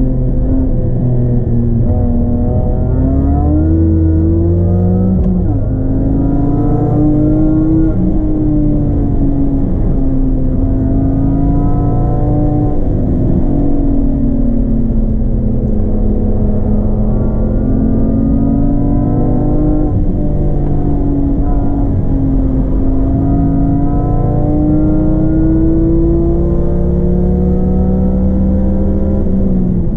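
A BMW E46 track car's engine, heard from inside the cabin, driven hard on a circuit. Its pitch climbs under acceleration and falls away under braking or a shift over and over, with a sharp drop about five seconds in.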